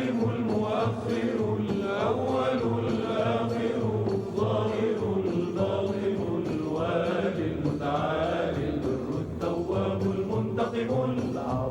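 Devotional Arabic chant: voices singing the names of God in long, ornamented melodic lines over steady instrumental accompaniment.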